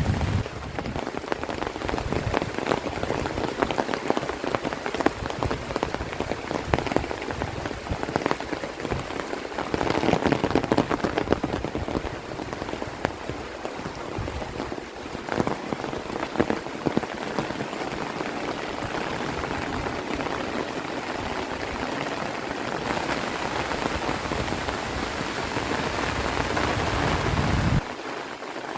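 Heavy rain falling steadily, a dense patter of drops hitting surfaces, swelling louder about a third of the way through and dropping a little just before the end.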